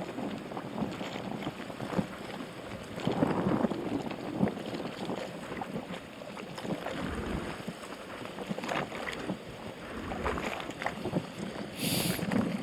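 Strong wind buffeting the microphone in uneven gusts, with a short high hiss near the end.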